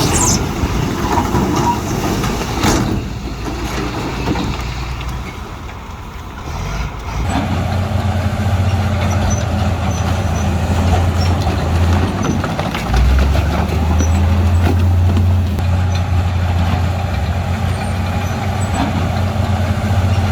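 Heavy diesel earthmoving machinery running. A rough, noisy stretch gives way, about seven seconds in, to a steady low engine drone, which grows heavier a few seconds later.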